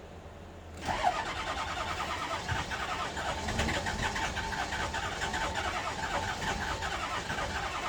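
6.0 diesel engine cranking on the starter: a starter whine with a steady rhythmic chug of compression strokes, beginning about a second in and going on without the engine catching. It turns over with good battery power and fuel reaching it, but it does not fire, pushing unburned diesel out of the exhaust.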